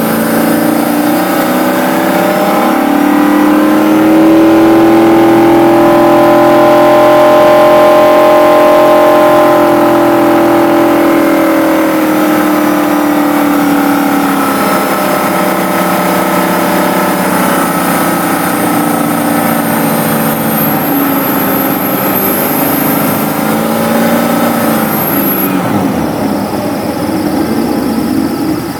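Engine revved up about three seconds in, held at raised speed for several seconds, then easing back down. It gives a second brief rev near the end before dropping back. A thin high-pitched whine sounds over it in the later part, the whine noise under investigation.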